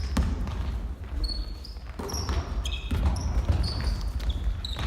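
Basketball game play on a gym floor: sneakers squeaking in short, high chirps, with the ball bouncing in a few sharp thuds.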